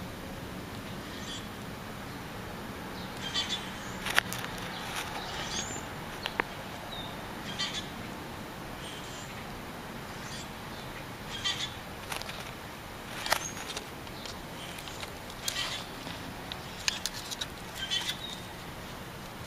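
Birds calling outdoors in short scattered chirps over a steady background, with a few sharp clicks.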